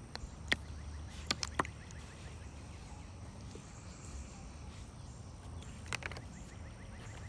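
Quiet outdoor ambience with a steady low rumble, a few sharp clicks scattered through it, and a faint rapid ticking call in the second half.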